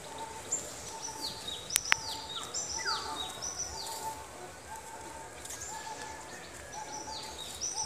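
Several birds calling at once: many short, high whistles that slide down in pitch, overlapping, over a lower short note repeated again and again. Two sharp clicks sound a little under two seconds in.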